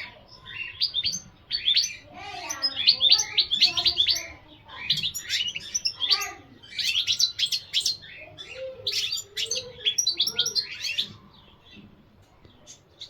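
European goldfinch singing: fast twittering phrases of high chirps and trills, broken by short pauses, stopping a second or two before the end.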